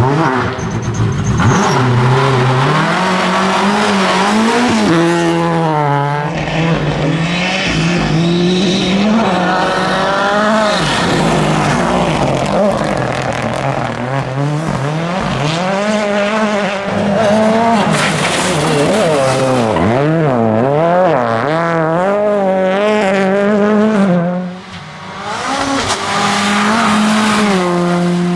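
Rally car engines at full throttle, revving up and falling back sharply again and again through gear changes and corners, with tyre squeal and skidding on the loose surface. The level drops briefly near the end, then the engine sound picks up again.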